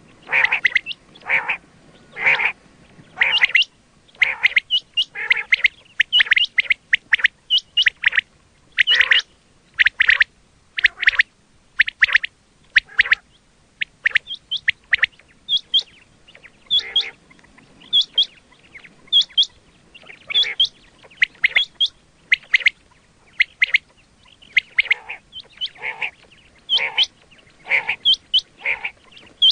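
Quail calling over and over in short, clipped notes, about one or two a second; some notes are fuller and harsher, others high and thin.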